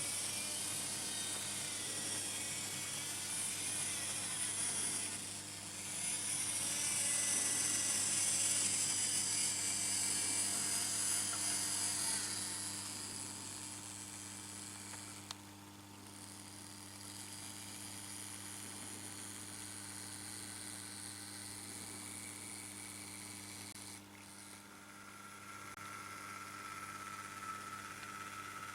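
Märklin H0 model trains running on metal M-track: small electric motors whirring and wheels rattling over the track. The sound swells about six seconds in as a train passes close, then fades, over a steady low hum.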